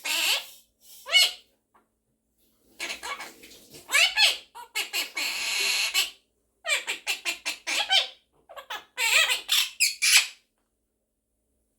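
Monk parakeet (Quaker parrot) squawking and chattering in clusters of short, sweeping calls with a harsh screech between them and a quick run of short calls about seven seconds in, falling silent near the end.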